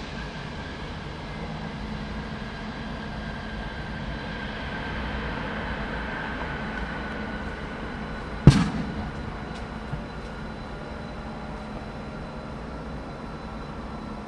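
Jet airliner engines running, a steady rumble with a whine that slowly falls in pitch. A single sharp knock a little past halfway.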